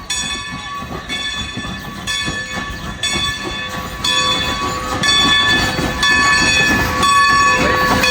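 Steam locomotive passing with its bell ringing about once a second, over the rumble of the train, growing louder as it approaches.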